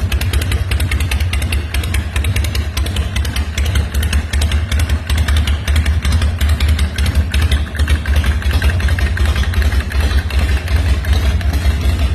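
Engine of a 2012 Custom Covington hardtail chopper running at a steady idle, with a fast, even beat of exhaust pulses and a deep rumble.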